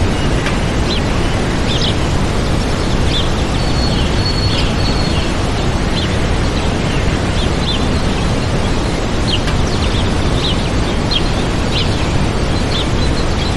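Waterfall rushing steadily, with small birds chirping over it: short high chirps every second or so and one held high whistle about three to five seconds in.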